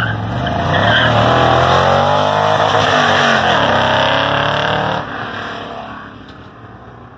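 The 5.7 L aluminum-block LS6 V8 in a Porsche 914 running hard under acceleration on track, its pitch rising and falling. About five seconds in it drops off suddenly and fades as the car pulls away.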